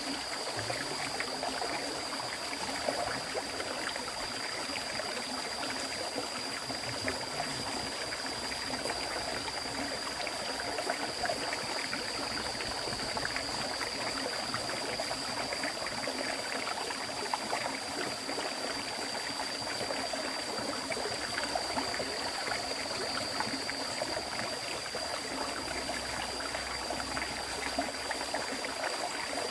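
River stream flowing, a continuous rush of water with trickling. A steady high-pitched whine sits above it.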